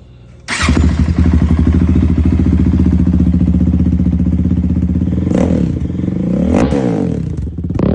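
Honda TRX450ER's single-cylinder four-stroke engine, fitted with a DASA full exhaust, starting on choke: it catches about half a second in and settles into a steady loud idle. In the last three seconds the throttle is blipped a couple of times, the pitch rising and falling with each rev.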